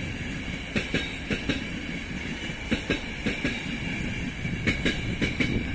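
ÖBB passenger coaches of a passing train rolling by, their wheels clicking irregularly over the rail joints over a steady rumble and a high ring.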